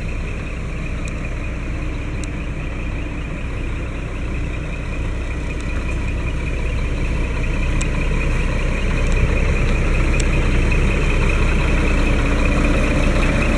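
Scania R480 truck's diesel engine running steadily, getting a little louder from about halfway through.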